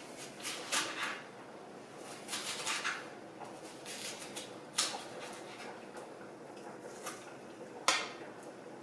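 Kitchen knife chopping an onion into chunky pieces on a cutting board: irregular knife strokes, a few close together in the first second and again around two to three seconds in, then two sharper single knocks later.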